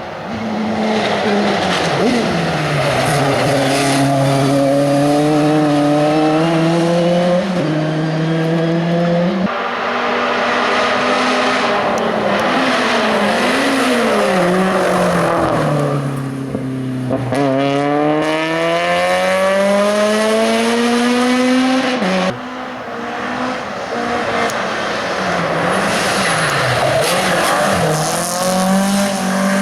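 Hill-climb race cars at full throttle, each engine note rising through the gears and dropping sharply at the shifts and the lifts for bends. The sound changes abruptly twice, about a third of the way in and again about three-quarters through, as one car gives way to the next.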